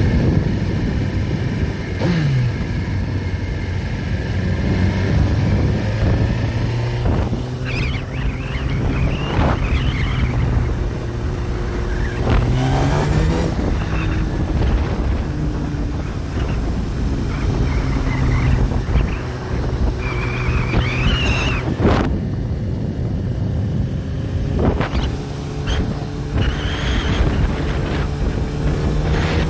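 Backhoe's diesel engine running steadily, rising in pitch briefly about twelve seconds in. Short high wavering squeals come and go over it, with a single knock a few seconds before the end.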